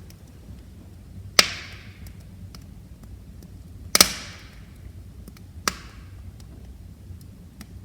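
Burning firewood crackling: a sharp pop about a second and a half in, the loudest pop at about four seconds and another soon after, with fainter ticks between them over a low, steady rumble of the flames.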